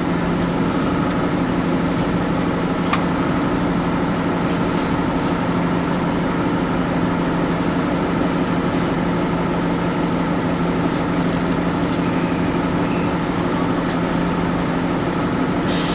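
Steady hum of a train standing at a station, heard from inside the carriage, with a few faint clicks.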